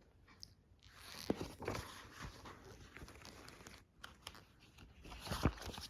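Paper rustling and handling noise as a book's pages are turned, with a few soft knocks.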